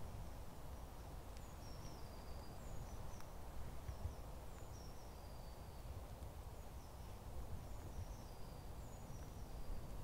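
Faint high, thin calls of a small songbird: short chirps and brief down-sliding notes in several separate phrases, over a low steady rumble.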